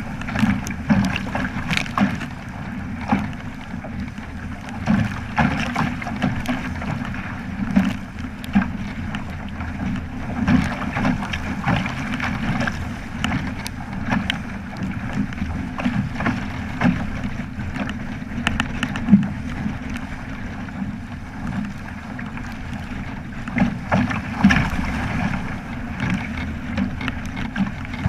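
Water slapping and rushing against a Flying Fifteen keelboat's hull under sail, in frequent short splashes over a constant low rumble, with wind buffeting the microphone.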